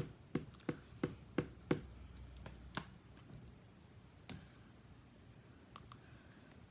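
Light quick taps, about three a second for the first couple of seconds, then a few single clicks: hand stamping tools being tapped and handled on a tabletop.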